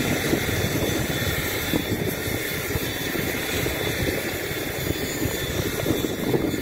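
Train moving off along the platform track, a steady rumble and hiss as its last vehicle draws away.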